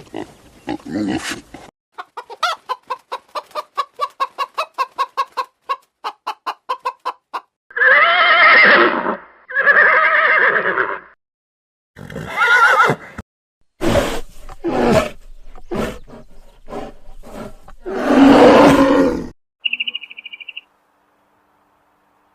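Zebra calling: a fast run of short barks, about four a second, then two long braying calls and a further string of calls.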